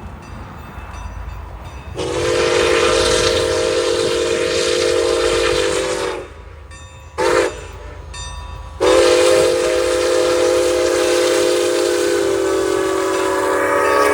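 Locomotive multi-chime air horn sounding a long blast, a short one, then another long blast, several tones sounding together, over the rumble of a passing train.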